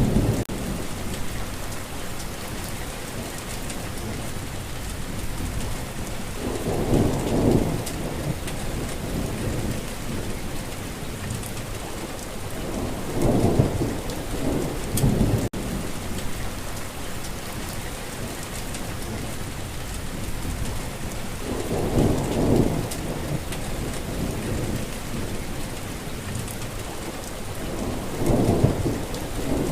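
Steady rain falling, with rolling thunder rumbling up four times, about every six to eight seconds.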